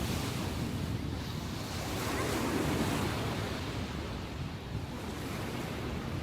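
Ocean waves breaking and washing ashore in a steady rush, the sea still rough after a typhoon, with wind buffeting the microphone.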